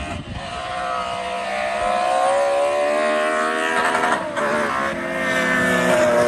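A car engine at hard acceleration, its pitch climbing steadily and growing louder, with a brief dip about four seconds in.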